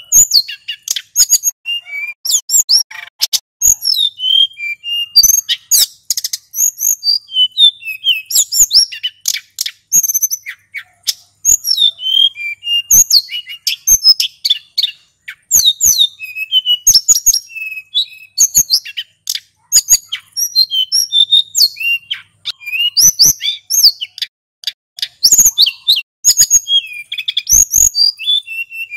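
Male sulingan gunung singing a long, continuous run of fast, high chirps and whistled glides, with sharp clicks scattered between the phrases.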